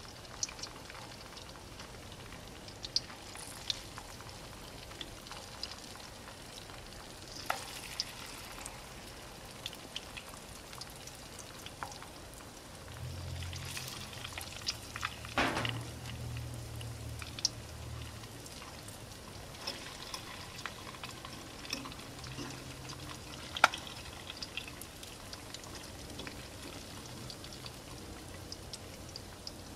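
Tempura-battered vegetable slices frying in hot oil in a steel frying pan: a steady sizzle with scattered crackles and pops.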